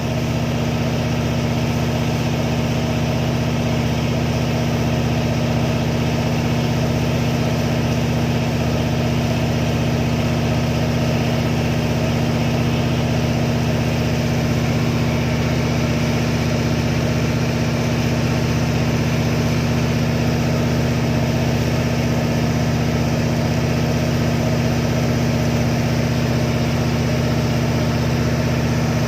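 Boat engine running at a constant speed, a steady low drone with a strong even hum that holds unchanged throughout.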